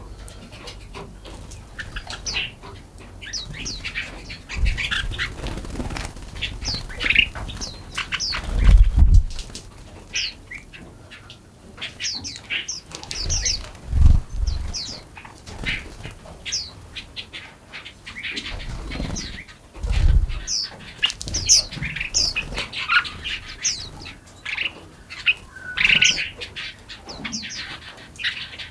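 Many small forest songbirds chirping and singing, with short high calls overlapping continuously. Several low thumps break in, the loudest about nine and fourteen seconds in and again near twenty seconds.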